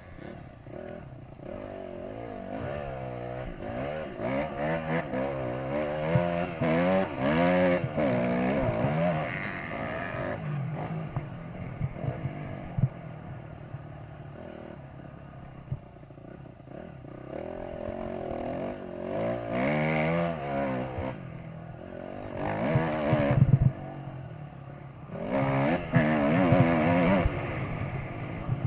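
Dirt bike engine revving up and easing off again and again, with several rising and falling surges of pitch and a steadier running sound between them.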